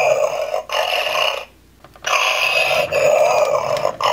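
Battery-powered Screaming Banshee monster-truck toy playing its electronic monster sound effect through its small speaker: long noisy blasts, with a half-second break about a second and a half in.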